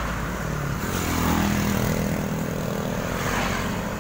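Engine of a motor vehicle running with a steady, even-pitched hum that comes in about a second in, over steady low rumbling noise.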